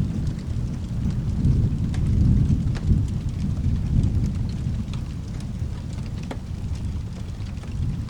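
Thunder rumbling low and uneven, easing off about two-thirds of the way through, over a steady wash of rain, with scattered small sharp clicks.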